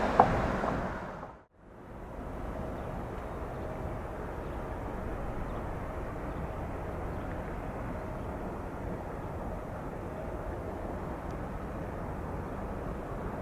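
Steady, distant jet aircraft engine noise over airport ambience, after a louder sound fades out about a second and a half in.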